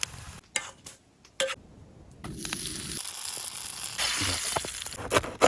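Bannock turnover sizzling as it cooks, the hiss starting about two seconds in and growing louder, after a few sharp clicks and knocks.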